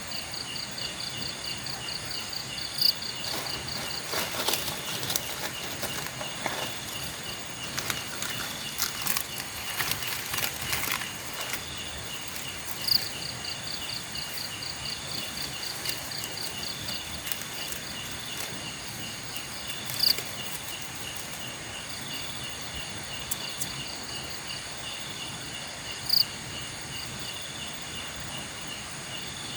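Night insects chirping steadily in fast, even pulse trains, over a soft background hiss. About four seconds in, a run of sharp crackling clicks lasts several seconds, and four short louder chirps stand out at intervals.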